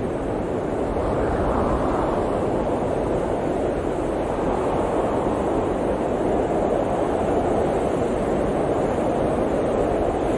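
Blizzard wind blowing steadily, a low rushing noise that swells slightly in a gust about a second in.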